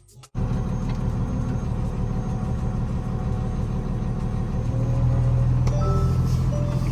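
A 28 ft box truck's engine running under way, heard from inside the cab: a steady low drone that gets louder about four and a half seconds in as the truck pulls harder. A few short tones sound near the end.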